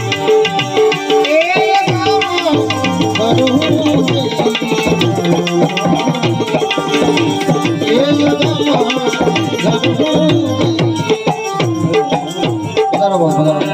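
Devotional bhajan music: tabla played with a melody instrument between sung verses.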